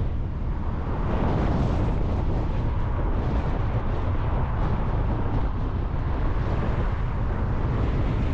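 Car on the move: a steady low rumble of road and engine noise, with wind buffeting.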